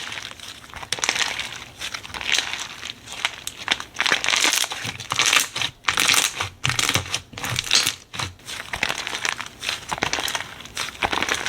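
Slime being squeezed and worked by hand, giving irregular crinkly crackling and popping that comes in uneven bursts.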